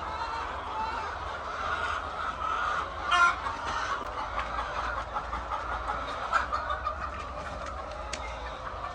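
A flock of hens clucking steadily together, many calls overlapping, with a louder single squawk about three seconds in and another about six seconds in.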